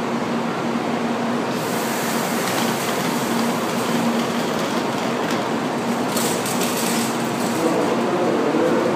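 Shinkansen train noise on a station platform: a steady hum, joined about a second and a half in by a rushing hiss, with a few clicks near the end.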